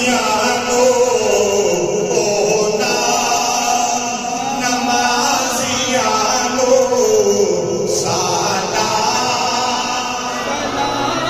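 Male voices chanting a Punjabi devotional salam, singing long drawn-out notes that slide slowly down in pitch.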